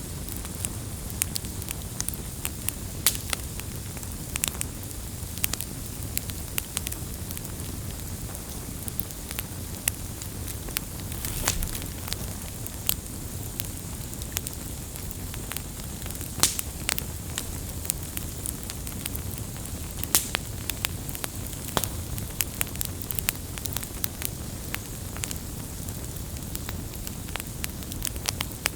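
Campfire burning with steady crackling: many sharp, irregular pops and snaps over a low, even rumble of the flames.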